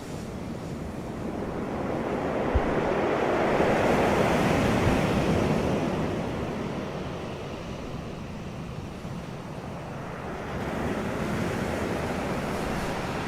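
Wind blowing across the microphone, rising to a strong surge about four seconds in, easing off, then building again near the end, with a low rumble under a rushing hiss.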